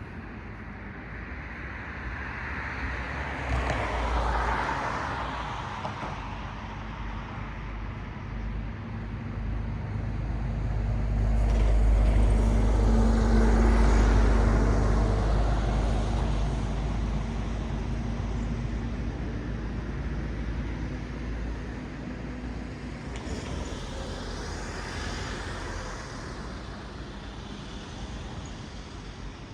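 Road traffic: cars passing one after another, each swelling and fading with tyre hiss and engine noise. About a third of the way in, a heavier vehicle passes with a deep engine rumble, the loudest pass.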